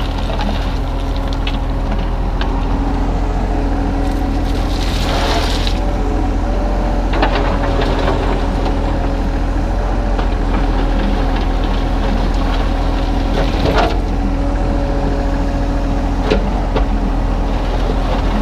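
Kubota U35-3 mini excavator's diesel engine running steadily while the machine works broken concrete, with a brief hiss about five seconds in and a few sharp knocks and scrapes from the bucket on concrete.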